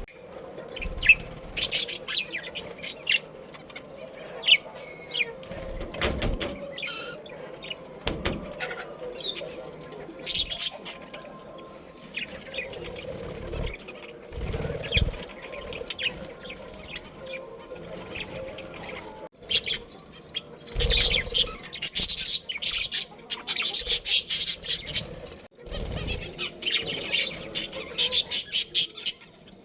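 Budgerigars chirping and chattering in many short, high calls, which grow busier and louder in the second half. A few low thumps come in between.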